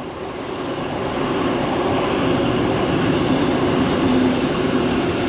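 A Sydney Trains D-set (Mariyung) electric multiple unit passing through the station: the steady noise of wheels on rail with a low, steady hum. It builds slightly over the first second.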